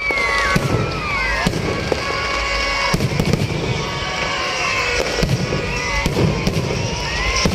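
Fireworks and firecrackers going off: a string of sharp bangs at irregular intervals, about one every second or so, over a steady crackling din.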